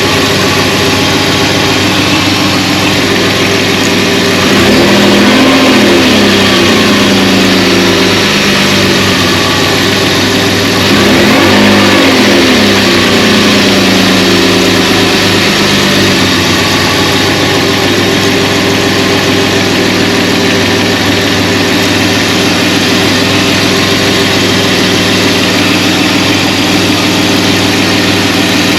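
BMW E34 520i's M50 2.0-litre inline-six, its intake freshly overhauled, idling steadily. It is blipped up in revs and back down twice: about five seconds in and again about eleven seconds in.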